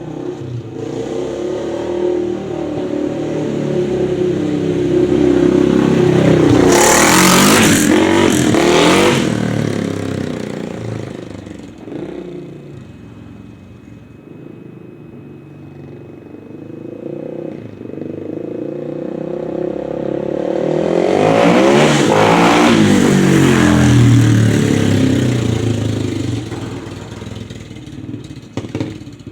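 1985 Honda XR350R single-cylinder four-stroke dirt bike engine passing by twice, growing louder to a peak and fading away each time.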